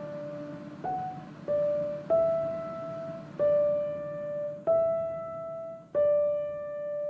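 Background music: a slow piano melody of single notes, six struck one after another about a second apart, each ringing on. The last is held and fading.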